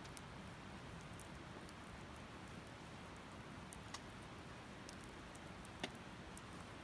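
Firewood burning in a campfire: a faint steady hiss with scattered sharp crackles and pops, the loudest about six seconds in.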